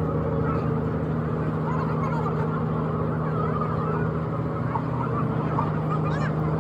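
An engine running steadily with an even hum, with many short rising and falling chirps over it.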